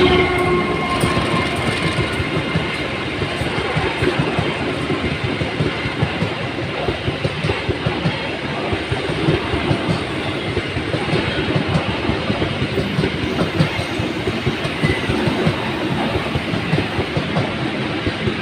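Passing train, its wheels clattering steadily over the rail joints; the last of its horn fades in the first second.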